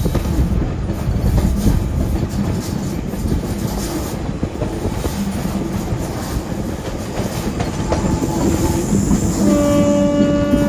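Passenger train running along the track, its wheels rumbling and clacking over the rails. Near the end the train's horn sounds as one long, steady note.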